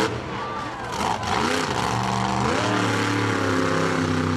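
Monster truck engine revving hard, its pitch dropping and climbing, then rising about two and a half seconds in and held at high revs.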